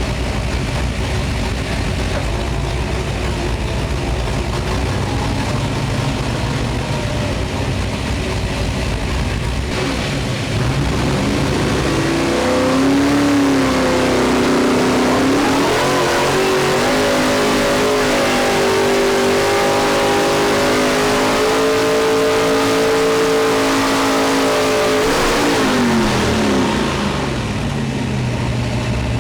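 Engine of a 1954 Ford two-wheel-drive pulling truck, heard from the cab: a low rumble at first, then about ten seconds in it gets louder and revs climb and hold high under full load for roughly ten seconds, before dropping back to a low rumble near the end.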